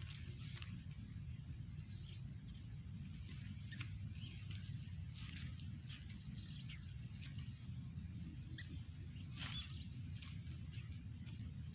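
Outdoor background rumble with a constant high-pitched tone, and faint short bird chirps and ticks scattered throughout.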